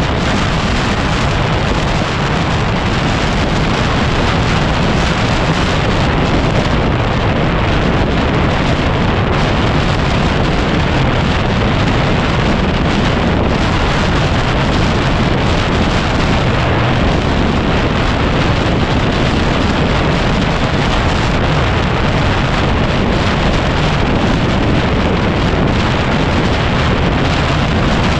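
Heavy wind buffeting on the microphone of a moving motorcycle, a steady rushing noise with no let-up. It mostly covers the Yamaha WR250R's engine and tyres on the desert track.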